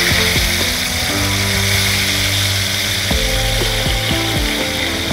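Chunks of eel frying in a large wok of hot oil, with a loud, steady sizzle and crackle. Background music plays underneath.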